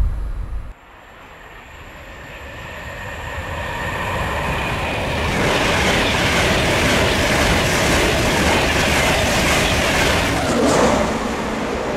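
InterCity 225 train with a British Rail Class 91 electric locomotive approaching at speed and passing. The sound builds over about four seconds into a loud, steady rush of wheels on rail with rapid beats, and a tone falls away near the end as it goes by.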